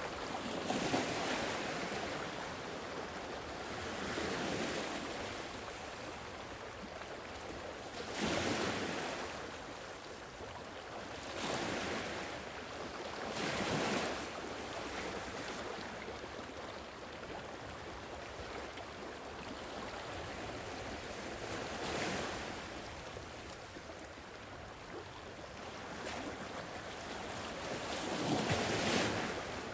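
Sea waves washing onto a shore, each wave swelling and falling back every few seconds over a steady hiss of surf, with some wind.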